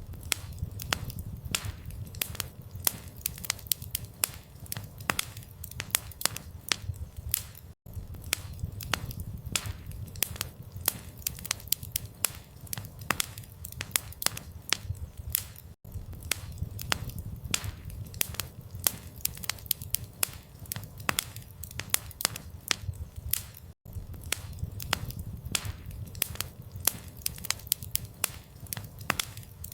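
Campfire burning, with many sharp irregular crackles and pops over a low steady rumble of flames. The sound cuts out for an instant about every eight seconds.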